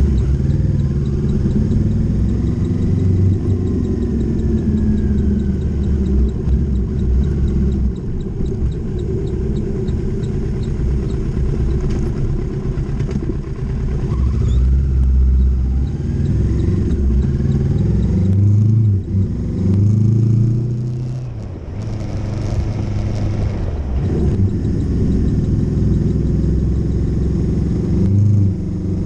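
Motorcycle engine running under way, its pitch rising and falling as the bike speeds up and slows, with a few brief dips in the sound about two-thirds through.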